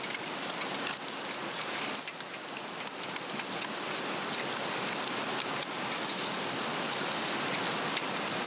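A Swedish torch, a cedar log with cross-cut grooves, burning: a steady rushing hiss of flame with faint crackles, growing louder as the fire flares up.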